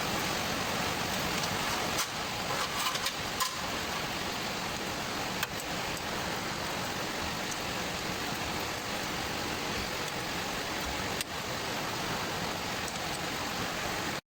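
Steady rain hiss, with a few short clicks and taps of hand-tool work on a bolt between them.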